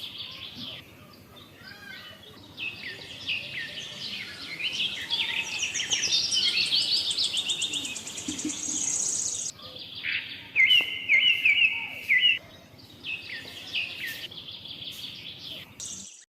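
Songbirds singing: a dense run of quick chirps and trills, with a fast, high rapid trill through the middle and a run of repeated notes just after it.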